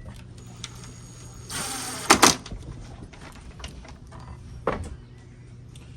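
Handling noises as a part is fitted back onto a mini-split indoor unit: a short scrape, then two sharp knocks or clicks that are the loudest sounds, and a softer knock later on. A low steady hum runs underneath.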